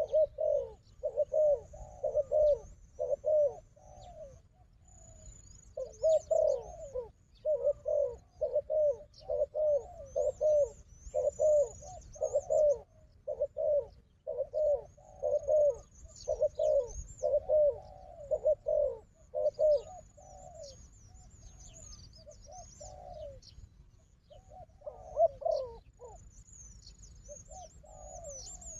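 Spotted doves cooing in repeated low phrases, each a run of rolling coo notes, with short pauses between phrases. Faint high chirps of small birds sound over them.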